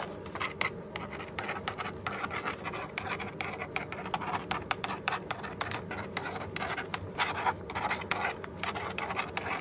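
Magnetic pen stylus scratching across the plastic surface of a magnetic drawing board in quick, repeated writing strokes.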